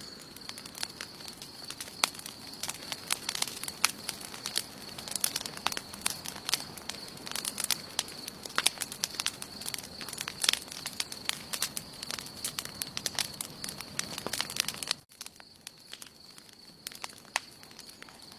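Wood campfire crackling, with frequent sharp pops over a soft hiss and a steady thin high-pitched tone. About fifteen seconds in, the sound drops suddenly and the popping thins out to fewer, quieter crackles.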